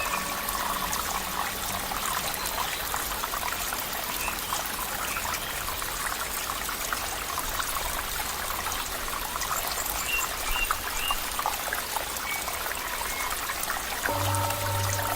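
Flowing water trickling and bubbling steadily, like a small stream. About a second before the end, a low steady hum with a few overtones comes in under the water.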